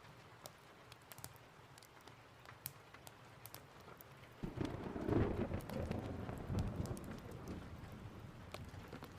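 Steady rain with scattered sharp ticks of drops; about halfway through, thunder breaks in suddenly and rumbles for a few seconds, slowly fading.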